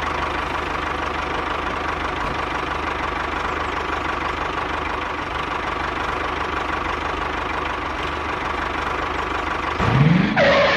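Mini tractor engine running steadily, with a low hum and a constant whine. Just before the end comes a short rising sweep and a brief louder burst.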